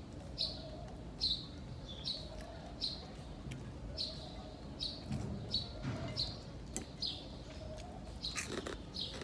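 A small bird chirping over and over, a short high chirp a little more often than once a second. A few faint clicks come in the second half.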